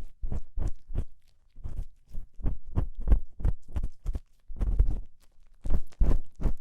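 Ear-cleaning tool scraping and rubbing in a microphone's ear, in quick repeated strokes about two to three a second with short pauses between runs, the sound of crunchy earwax being scraped out.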